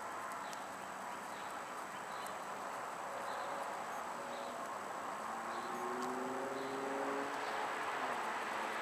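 Outdoor background noise with small, faint, high chirps repeating about once a second. In the second half a low hum rises slightly in pitch and the noise grows louder, like an approaching vehicle.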